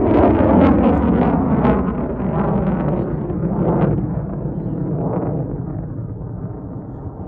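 F-35A Lightning II's Pratt & Whitney F135 jet engine passing as a loud roar full of rapid crackling, fading steadily as the jet moves away.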